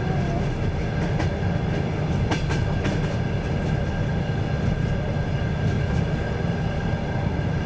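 Train wheels running along the rails, heard from a moving train: a steady low rumble with the knock of wheels over rail joints, and a few sharper clicks about two to three seconds in.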